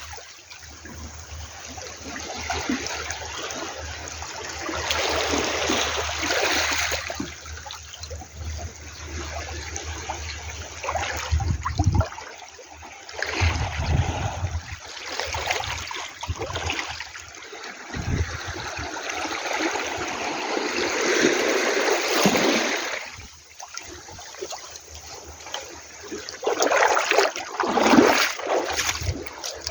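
Sea water washing at the shore in repeated swells that rise and fall back, with splashing and trickling.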